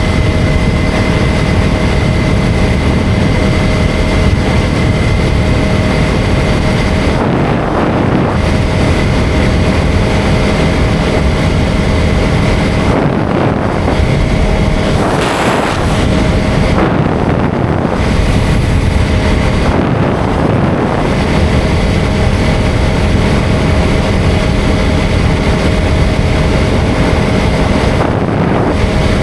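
KTM 250 Duke's single-cylinder engine running at a steady cruise, with wind rushing over the microphone. The high hiss dips briefly a few times, and there is a short surge of noise about halfway through.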